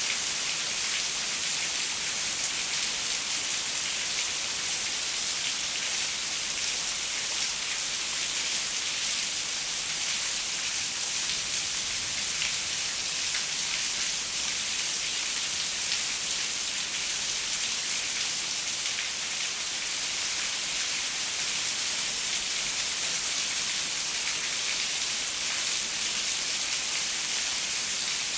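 Steady rain falling on a window, a dense even hiss with fine patter of drops.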